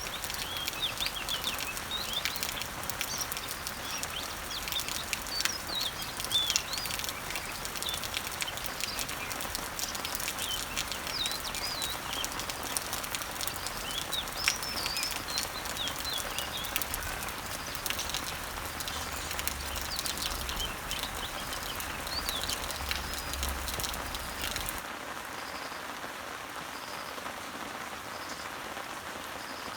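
Rain falling steadily on leaves, with many small birds chirping over it. About 25 seconds in, the birdsong cuts off abruptly, leaving quieter, steady rain.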